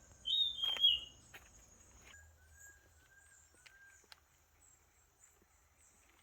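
Rainforest birds and insects: one loud, clear bird call lasting under a second near the start, then four soft, lower whistled notes. A steady high insect chirring runs underneath, with a few faint footstep clicks on the trail.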